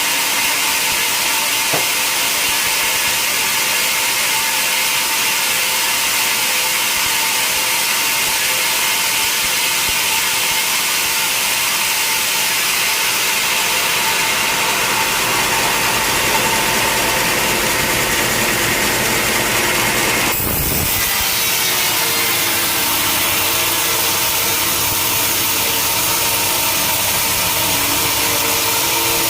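Sawmill saw cutting through a large log: a continuous loud, steady machine and sawing noise with a high whine. The sound changes abruptly about two-thirds of the way through and carries on with a lower hum.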